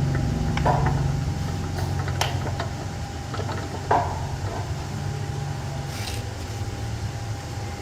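A steady low machine hum with a faint constant whine over it, and a few sharp knocks, the loudest about four seconds in.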